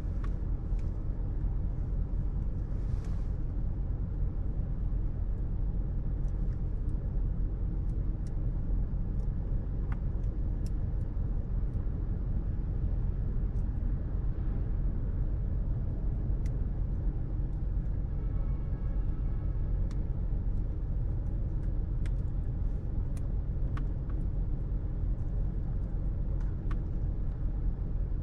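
Steady low rumble of road traffic, with scattered faint ticks and a faint brief tone about two-thirds of the way through.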